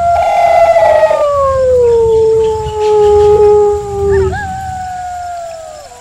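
Wolves howling. One loud howl rises sharply, holds a steady pitch for about a second, then slides slowly lower over the next three seconds. A second, higher howl joins about four seconds in and falls away near the end.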